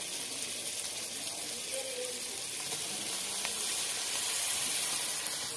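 Chicken pieces frying in oil in a metal pot over a wood fire: a steady sizzling hiss.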